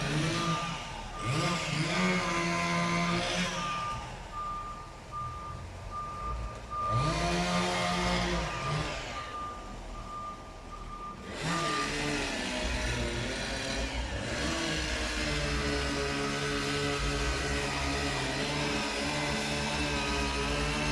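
Diesel engine of a heavy machine revving up and down several times, then running steadily, while a reversing alarm beeps in even pulses for several seconds in the middle. These are typical of a machine manoeuvring while loading dump trucks.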